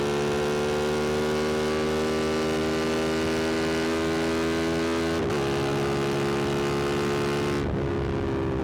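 Yamaha MT-07's 689 cc parallel-twin engine pulling under throttle, its note climbing slowly, with an upshift about five seconds in where the pitch drops and then climbs again. Near the end the note eases off.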